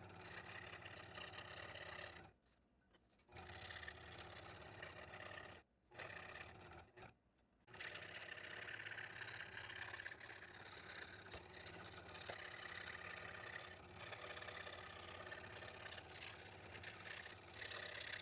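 Scroll saw running with its blade cutting thin wood, the sound dropping out briefly three times in the first eight seconds.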